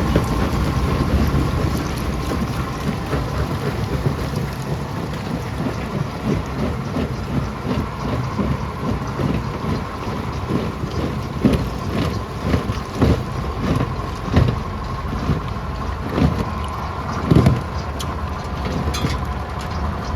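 Rock crusher running with a steady low drone and a faint hum. From about eight seconds in, rocks knock and clunk irregularly inside it, the heaviest knock a few seconds before the end.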